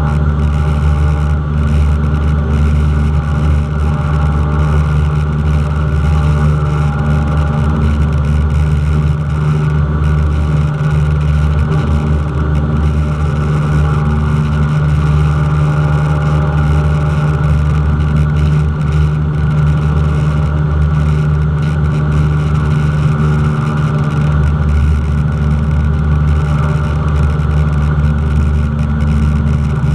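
Cessna 172's piston engine and propeller droning at a steady, even power setting.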